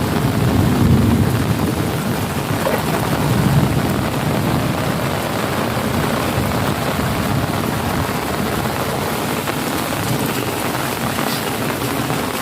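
Heavy rain pouring steadily, with a low rumble swelling in the first few seconds.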